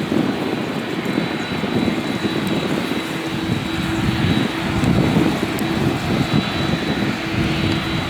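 Boeing 787-10 Dreamliner's jet engines running, a steady loud rushing noise with a faint steady whine.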